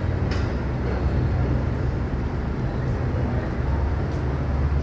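Steady low rumble of a GO Transit commuter train, with a few faint clicks over it.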